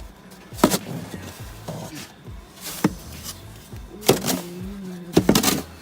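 Snow shovel scraping and striking a deck, five separate strokes about a second apart, over a steady rumble of wind.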